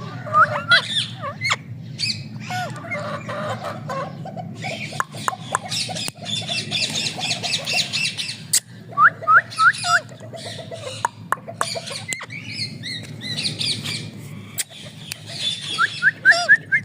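Parrots squawking and chirping: short rising whistles, fast chattering runs and sharp squawks, one after another.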